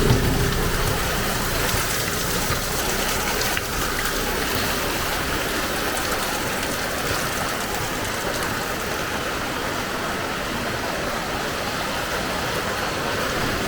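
Heavy rain falling steadily, an even hiss of rain hitting the ground. A low vehicle rumble dies away right at the start.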